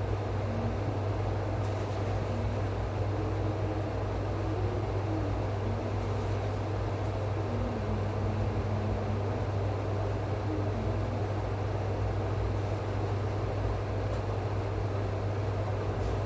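Steady low machine hum with an even rush of background noise; a few faint, brief wavering tones come and go around the middle.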